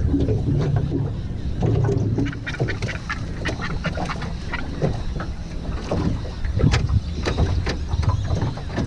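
A bird giving many short, sharp calls over a steady low rumble of wind and water.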